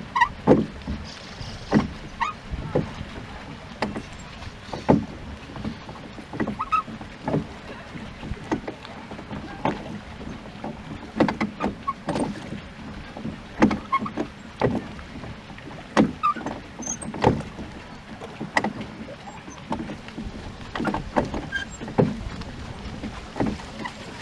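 Rowboat being rowed: oars knocking in their oarlocks and dipping into the water, sharp irregular knocks every second or two over a steady wash of water.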